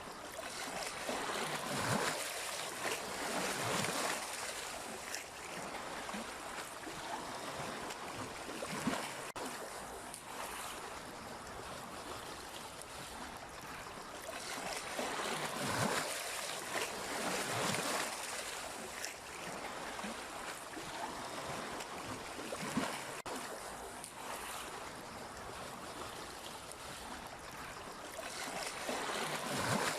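Sea waves washing in, swelling into a surge every few seconds over a steady splashing wash.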